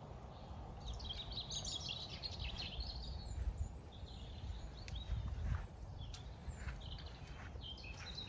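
Small birds singing outdoors: a run of high chirping song about a second in, then scattered short chirps, over a steady low rumble.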